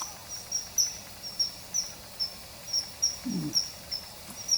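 Common kingfisher calling: high, thin, sharp chirps repeated about three times a second, from a dubbed-in field-guide recording.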